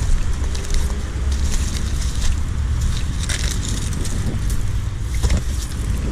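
Irregular crunching and crackling of brush and wood debris being handled or stepped on, over a steady low rumble.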